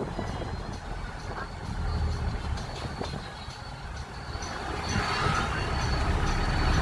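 Low, steady rumble of a moving vehicle, growing louder in the second half, with faint, evenly repeated high ticks.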